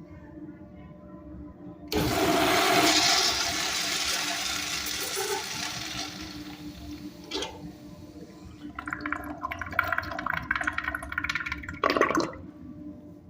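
A restroom fixture flushing: water rushes in suddenly about two seconds in and slowly dies down, then a second, choppier stretch of water noise cuts off abruptly near the end.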